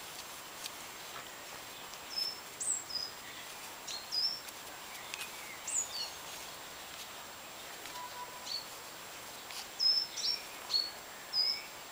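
Songbirds chirping: short, thin, high notes, some sliding down from higher still, repeated every second or so and more often near the end, over a steady outdoor hiss.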